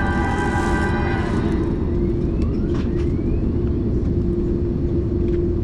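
Steady rumble and droning hum of an Airbus A330's cabin during pushback. The tail of the safety video's music fades out in the first second and a half.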